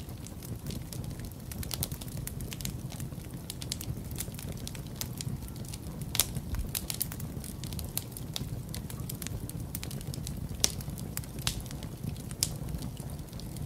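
Wood fire crackling in a fireplace: frequent irregular sharp pops and snaps, a few louder than the rest, over a steady low rumble.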